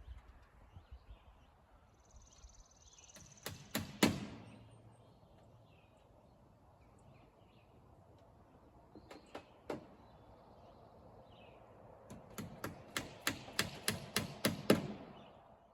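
Hammer blows driving nails, most likely siding nails going into vinyl siding. A few blows come about four seconds in and two more near the middle, then a quick run of about a dozen near the end, about four or five a second and getting louder. Birds chirp faintly behind.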